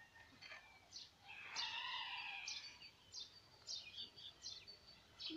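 Small birds chirping, with short, high, falling chirps repeated throughout, and one longer, fuller call lasting about a second near the middle.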